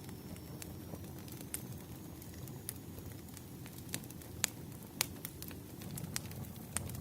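Wood campfire burning: a steady low rush under irregular sharp crackles and pops, the loudest two about four and a half and five seconds in.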